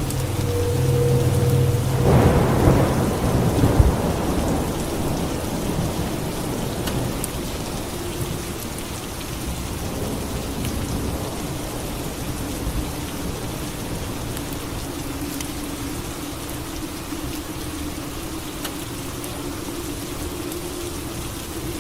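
Steady rain falling, with a thunderclap that swells about two seconds in and rumbles away over the next few seconds.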